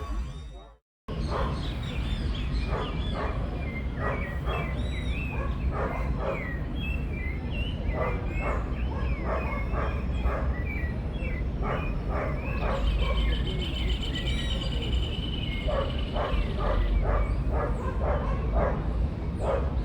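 Outdoor park ambience of many short bird chirps and calls over a low rumble, with a steady high trill in the latter half; the sound breaks off briefly about a second in.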